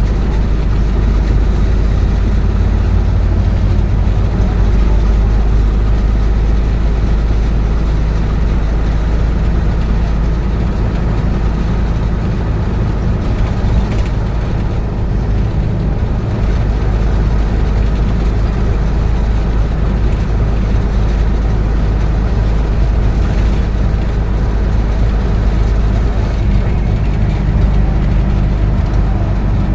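Steady low engine and road rumble of a moving vehicle heard from inside, a deep drone with a faint hum over it.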